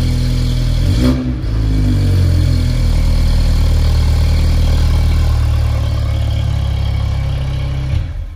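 2018 Mini Cooper S (John Cooper Works) with JCW exhaust, its turbocharged four-cylinder engine running at about 1,200 rpm with a deep exhaust note. There is a brief change in pitch about a second in, and the sound cuts off abruptly near the end.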